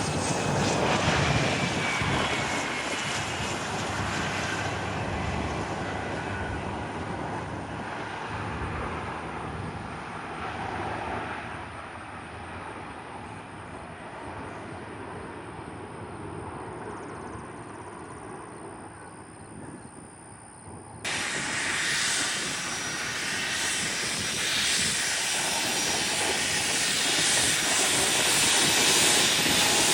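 Business jet engines: one aircraft goes by and its noise fades away over some twenty seconds. About two-thirds of the way through, the sound cuts abruptly to another jet's engine noise, growing louder toward the end.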